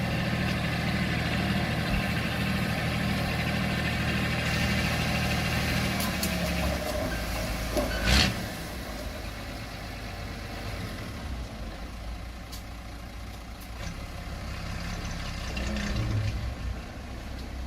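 Diesel engine of a small earthmoving machine running steadily, its note dropping to a quieter, lower level about six and a half seconds in. A single sharp, loud burst about eight seconds in.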